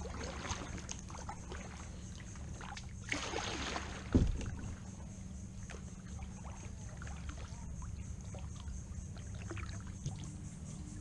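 Kayak moving through a narrow mangrove tunnel: water dripping and splashing around the hull and paddle, over a steady low rumble. A short rush of splashing about three seconds in, then a sharp knock just after four seconds.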